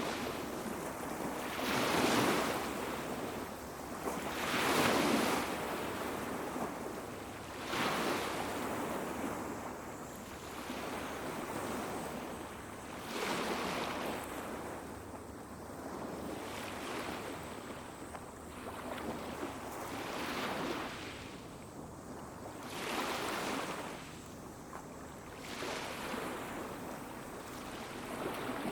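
Small waves washing onto a beach, each swell rising and falling back every two to three seconds, the biggest about two and five seconds in. A faint, steady high cicada drone runs underneath.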